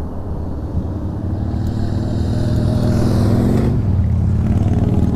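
Road traffic with a motor vehicle accelerating, its engine note rising in pitch over a low steady rumble, until it cuts off sharply about three and a half seconds in.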